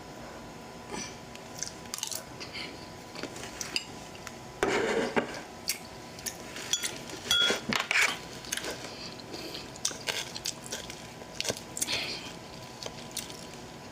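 Close-up eating sounds: crunching and chewing of food, with scattered clicks and a few louder crunches about a third of the way in and just past halfway.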